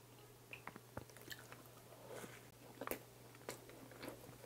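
Faint close-miked mouth sounds of biting and chewing a soft cream bun dipped in warm fresh cream, with a few short clicks scattered through.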